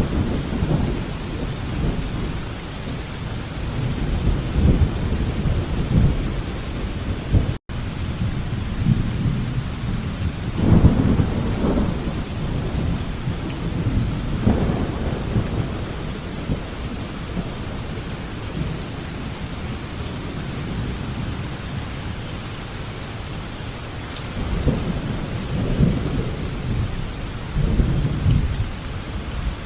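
Steady rain with rolling thunder: low rumbles swell several times, strongest about a third of the way in and again near the end. The sound cuts out for a split second about a quarter of the way in.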